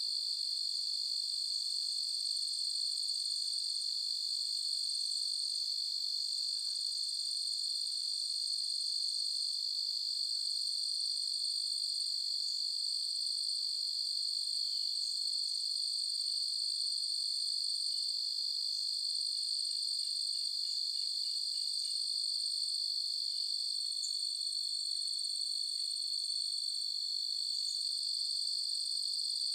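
Chorus of crickets trilling at night: a continuous, high-pitched, unbroken insect drone that stays at an even level.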